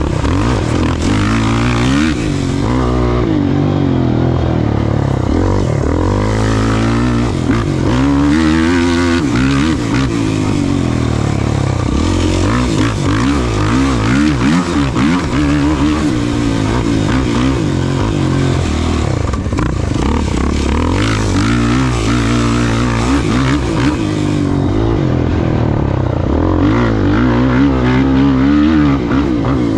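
Off-road race vehicle's engine running hard at high revs, its pitch rising and falling continuously as the throttle is worked over rough ground.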